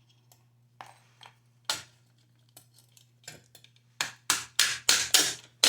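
Sharp metallic taps and clinks on a gas water heater's burner assembly as it is tapped into place. A few scattered taps at first, then from about four seconds in a quick run of loud, even taps, about three a second.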